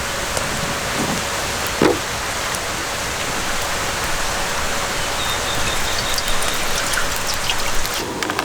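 Steady, even water noise, with one short sharp knock about two seconds in.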